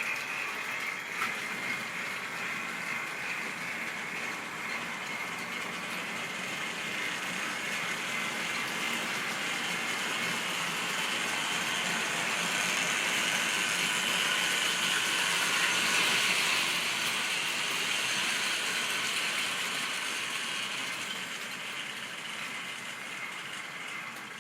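Model railway train running on the track: a steady whirr and rattle of the locomotive's motor and the wheels on the rails. It grows louder to a peak about two-thirds of the way through, then fades as the train moves away.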